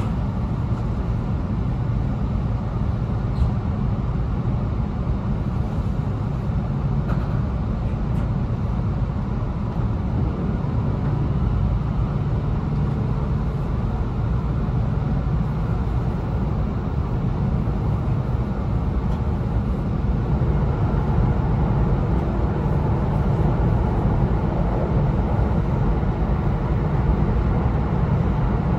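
Running noise inside an E2 series Shinkansen car: a steady low rumble, growing slightly louder in the second half.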